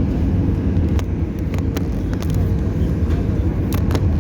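Airliner cabin noise while taxiing before takeoff: a steady low rumble from the engines and rolling gear, with a few sharp clicks and rattles about a second in and near the end.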